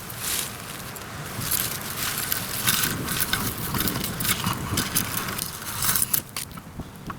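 Pine branches crackling, snapping and rustling as they are handled and broken off by hand, a busy run of short cracks over rustling needles that thins out near the end.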